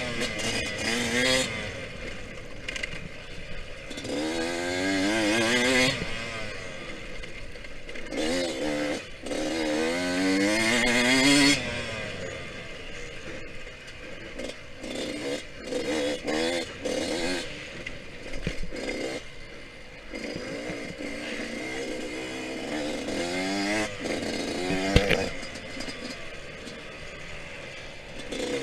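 Yamaha YZ125X 125 cc two-stroke dirt bike engine revving hard and shifting, its pitch climbing steeply again and again and then dropping as the throttle is chopped. A single sharp knock comes near the end.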